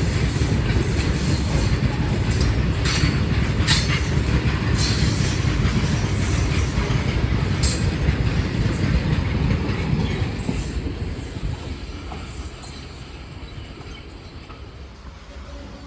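A train running on rails: a heavy, loud rumble of wheels on track with several brief high-pitched squeals in the first half, dying away over the last five seconds or so.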